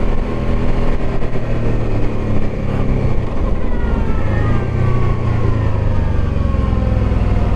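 Motorcycle engine running in a low gear on a steep descent. Its pitch slides down steadily through the second half as the revs fall.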